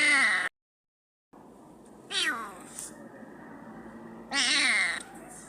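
Domestic cat meowing repeatedly: a call at the start that cuts off abruptly, then two more drawn-out meows, each under a second, the middle one falling in pitch.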